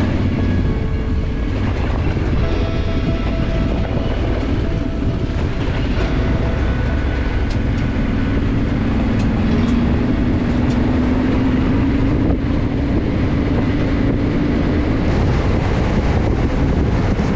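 Motorcycle engine running on the move, with heavy wind and road rumble. Its pitch slowly rises through the middle as the bike picks up speed.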